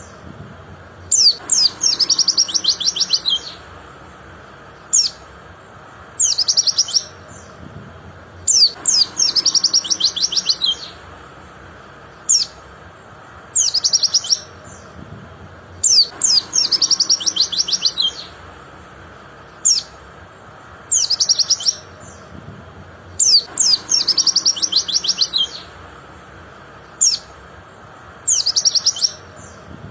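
White-eye (pleci) singing in high, clear phrases: a few sharp notes lead into a fast, rippling trill about two seconds long, with single short chirps in between. The same sequence recurs about every seven and a half seconds, four times, as a looped song recording would.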